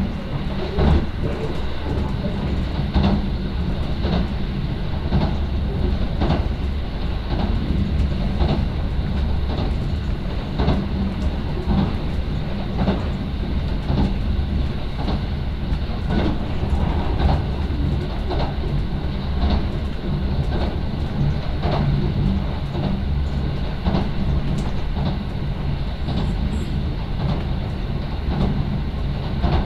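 Electric commuter train running at speed, heard from inside the passenger car: a steady low rumble, with the wheels clicking over rail joints about once or twice a second.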